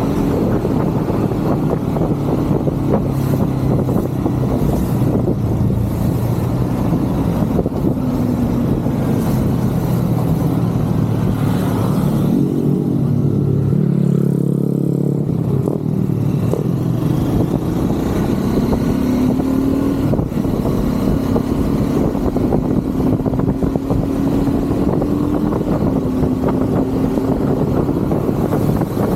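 Triumph Scrambler 400 X single-cylinder motorcycle engine running on the move through city traffic, its pitch rising and falling as the rider accelerates, backs off and changes gear. There is a steady road and traffic noise underneath.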